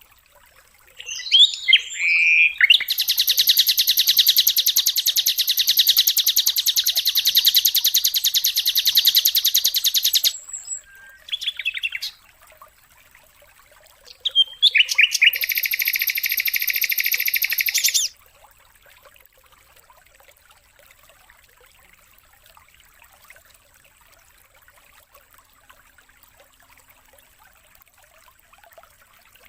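Songbird singing long, rapid, buzzing trills: one lasts about seven seconds, a short burst comes a little after, and another trill of about three seconds starts around fifteen seconds in. After that only faint hiss remains.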